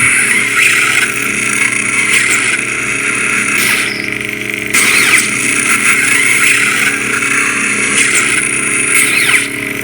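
Custom lightsaber's soundboard playing Lord Blako's 'Pitch Black' dark-side sound font: a loud, aggressive buzzing hum that swells with swings, the strongest about five seconds in.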